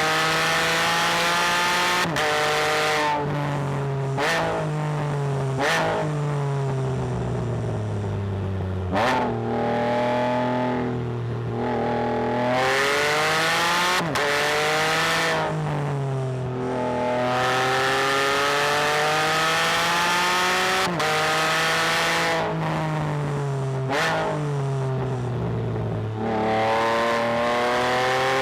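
Can-Am Spyder F3-S's 1330 cc Rotax three-cylinder engine, with a cat-delete exhaust, revving hard under load. Its pitch climbs, breaks sharply at each gear change and falls again, many times over.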